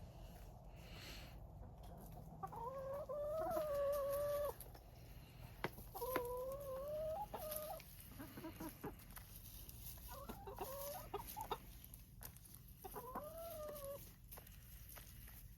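Domestic hen calling: about four drawn-out calls, each a second or two long, with a few short clicks between them.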